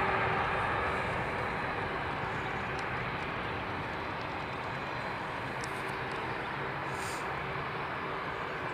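Jet aircraft engines running steadily: an even rumble and hiss with a faint steady hum, easing slightly in the first second.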